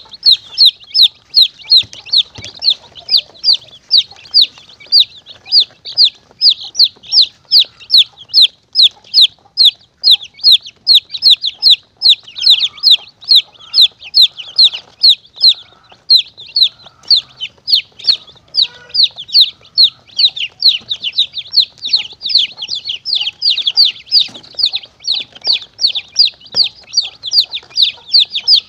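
Baby chicks peeping nonstop in a rapid, even series of short, high, downward-sliding peeps, about three a second. This is a chick-call lure used to draw monitor lizards and mongooses.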